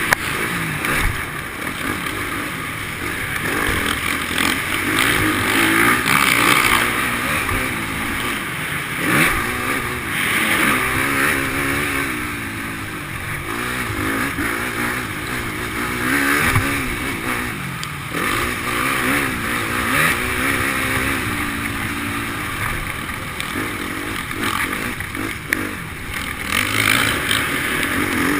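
Motocross dirt bike engine being ridden around a track, its pitch rising and falling over and over as the rider opens and closes the throttle through jumps and corners.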